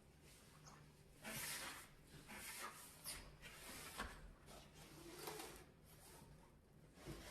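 Faint scrubbing strokes in stovetop cleaning, a few short swishes with a couple of light taps in between.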